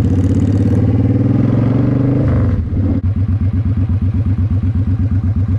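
Harley-Davidson Road Glide's V-twin engine running steadily at low speed, then a little over halfway through it drops to a loping idle of about nine even pulses a second.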